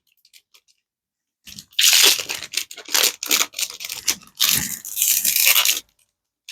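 A Disney Lorcana booster pack's plastic wrapper being torn open and crinkled by hand, in several crackling rips starting about a second and a half in and stopping shortly before the end.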